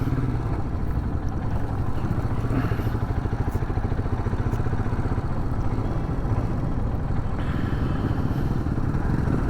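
Royal Enfield Himalayan's single-cylinder engine running at low speed, its firing pulses steady and even.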